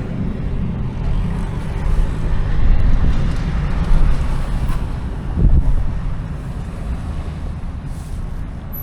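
Steady low rumble of a car driving, with wind noise on the microphone.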